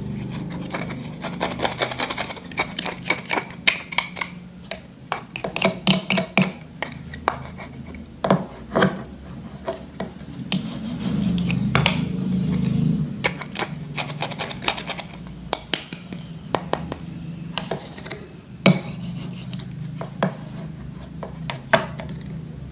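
Wooden toy fruit and vegetable pieces being cut apart with a toy knife: irregular wooden clicks and knocks, and scratchy rasping rubs as the halves are pulled apart. A steady low hum runs underneath.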